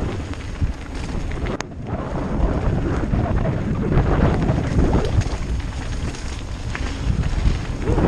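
Wind buffeting the microphone of a mountain bike camera at speed, over the rumble and rattle of tyres and bike on a rough descent, with a brief lull about a second and a half in.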